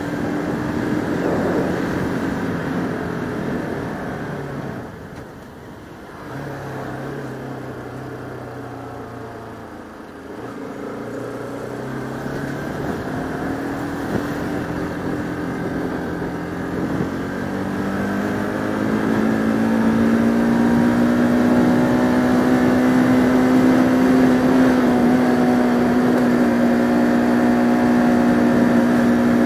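Bajaj Pulsar RS200 single-cylinder motorcycle engine under way: it eases off to a low steady idle for several seconds, then pulls away with rising revs and settles into a louder steady cruise for the last third.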